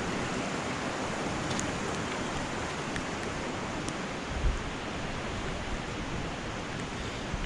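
Steady rush of flowing water from high-running floodwater, with a brief low thump about halfway through.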